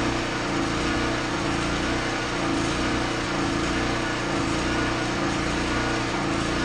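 A small engine or motor running steadily at a constant speed.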